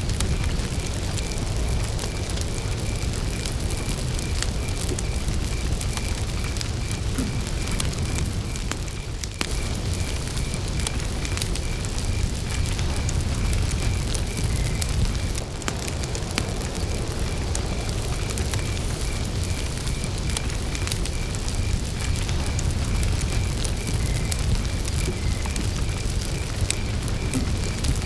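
Wood campfire burning, a steady low rush of flame with many small crackles and pops. Over it a cricket chirps on one pitch in an even, unbroken rhythm.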